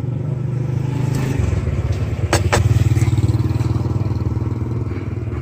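Motorcycle engine running close by, growing louder a little before halfway through. Two quick sharp clicks come just before it swells.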